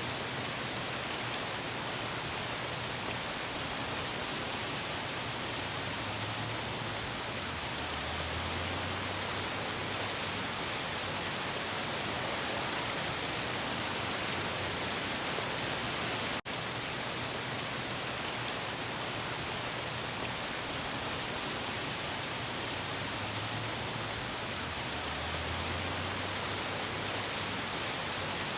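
Steady, even hiss of waves washing in a harbour. Twice a low rumble swells and fades, and the sound drops out for a split second just past the middle.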